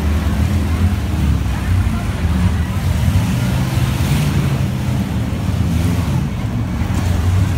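Demolition derby cars' engines running in the arena, a loud, steady low rumble.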